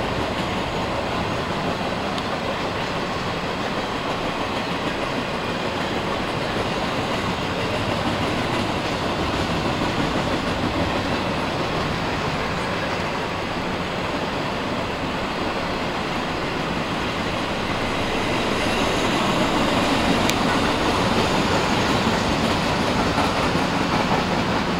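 CSX freight train of flat cars rolling past, a steady rumble and clatter of steel wheels on the rails, growing a little louder in the last few seconds.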